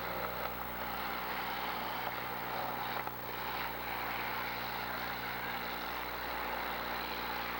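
Demolition derby car engines running, a steady noisy din.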